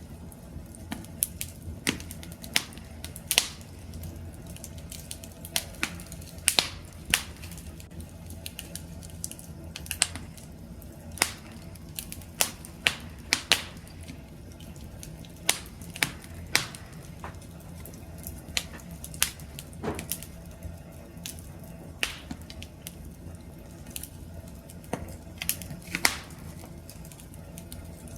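Wood fire crackling, with irregular sharp pops and snaps, several a second at times, over a steady low rumble of burning.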